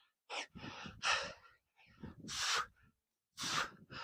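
A man breathing hard while doing push-ups: about four heavy breaths, each a short rush of air with silence between.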